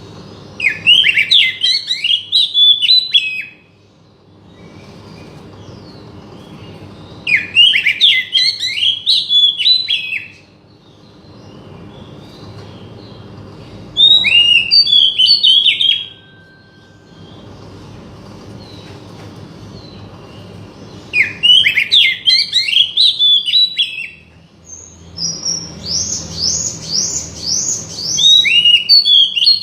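Oriental magpie-robin (kacer) song, played as a lure track to coax a bird that has stopped singing into song. There are five loud phrases of rapid, sweeping whistled notes, each two to four seconds long, separated by pauses with a low steady hum.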